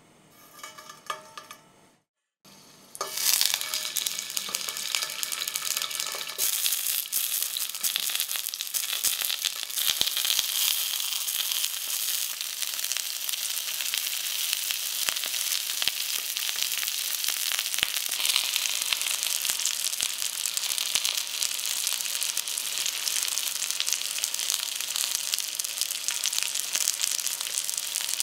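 Halved new potatoes sizzling cut side down in hot rapeseed oil in a frying pan: a steady hiss with many small crackles, starting about three seconds in.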